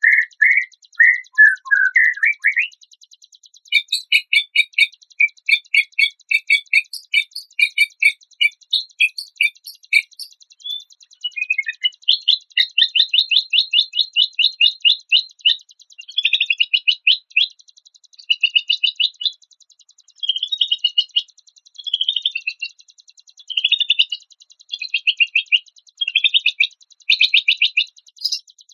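Recorded songbird song: a string of clear whistled notes, then from about four seconds in, rapid chattering trills and repeated high chirps in short phrases of a second or two with brief gaps, over a faint steady high-pitched buzz.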